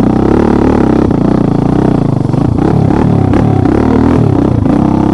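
Vehicle engine running loud under way, its revs rising and falling again and again from about halfway through.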